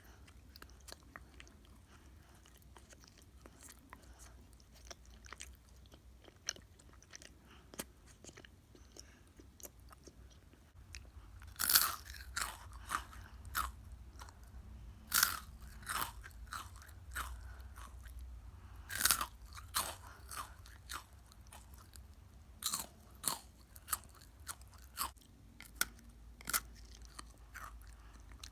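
Chewing crunchy food close to the microphone: faint clicks and quiet chewing at first, then, from well under halfway in, louder crisp crunches about once a second, irregularly spaced.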